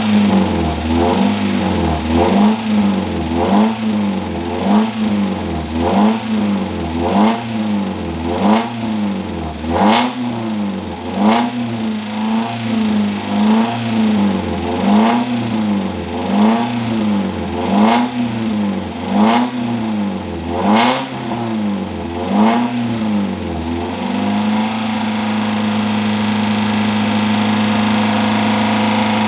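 Freshly rebuilt Mazda Miata four-cylinder engine running in its first run-in. It is revved up and down in an even rhythm, about once every second and a half, then held at a steady speed for the last few seconds.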